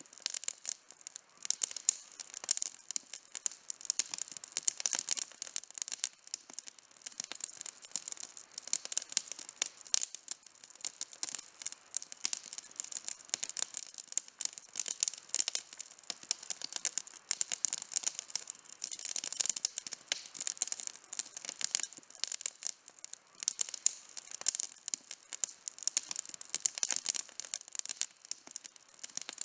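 Outdoor wood campfire burning, with dense, fast crackling and popping that runs on without a break.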